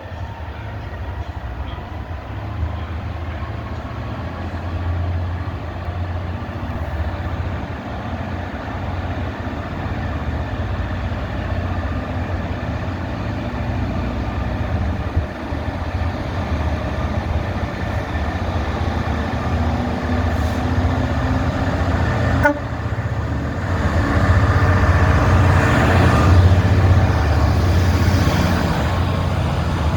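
A train running with a steady low rumble, growing louder over the last several seconds.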